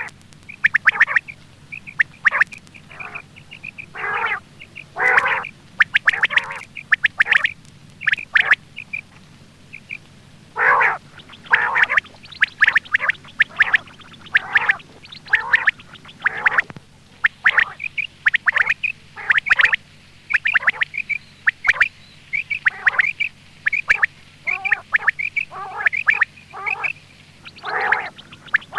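Quail calling over and over in short, sharp calls, some quickly repeated in runs and some overlapping: a quail-call recording of the kind played as a hunting lure.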